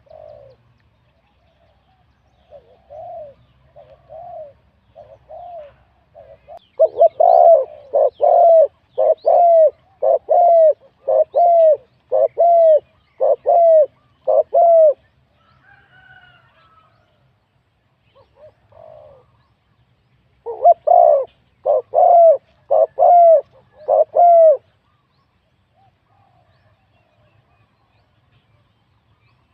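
Spotted dove cooing: a few soft coos, then a long series of about a dozen loud coos, each under a second apart, a pause with a brief fainter higher call, and another series of five loud coos.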